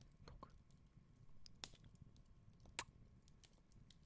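Fireplace crackling softly: scattered small pops and ticks, with two sharper pops, one a little over a second and a half in and one near three seconds.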